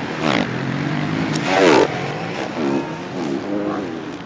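Four-stroke 450 motocross bike engines revving, with several rising and falling pitch glides, played backwards.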